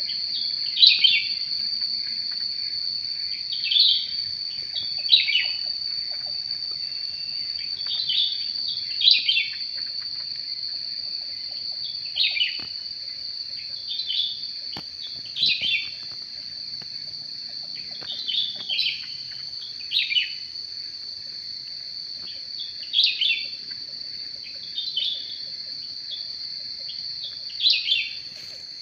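Cucak rante bird calls: short, falling chirps, singly or in pairs, every one to three seconds. A steady high-pitched whine runs underneath.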